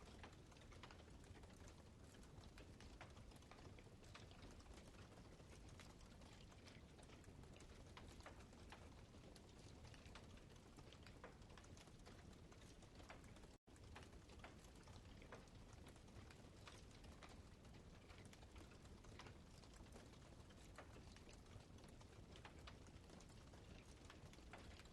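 Campfire crackling faintly: scattered small pops and snaps at an irregular pace, with a split-second dropout about halfway through.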